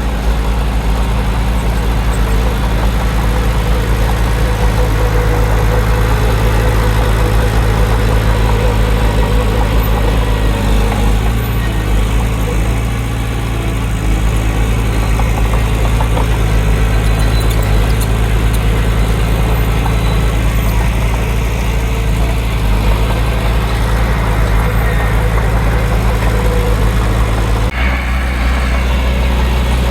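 Heavy earthmoving machine's diesel engine running steadily under load, with the engine note shifting near the end.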